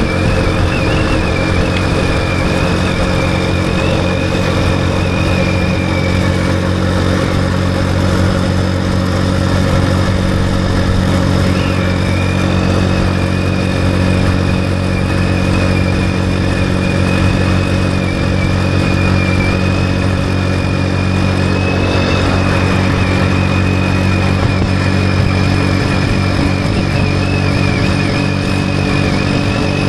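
Motorcycle engine running at a steady speed while riding, with a wavering high tone over it for most of the time.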